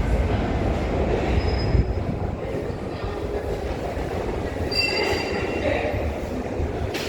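New York City subway train running on the A/C line, a steady low rumble of wheels on track. Brief high-pitched wheel squeals come about a second and a half in and again around five seconds in.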